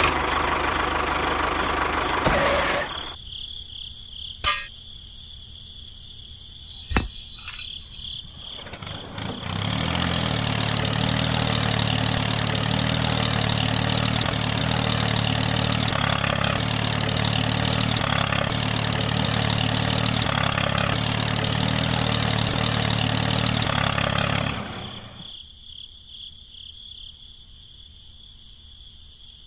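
Small engine running steadily at an even pitch, starting about ten seconds in and cutting off about fifteen seconds later. It is preceded by a short noisy burst and a few sharp clicks, with a steady insect buzz behind.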